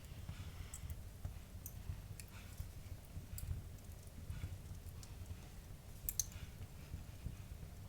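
Wood fire crackling in a fireplace: irregular sharp pops and snaps over a steady low rumble of the flames, the loudest pop about six seconds in.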